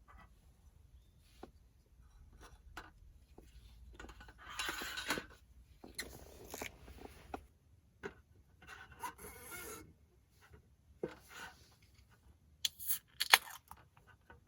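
Things being handled: irregular scraping and rustling, then a few sharp clicks and knocks near the end.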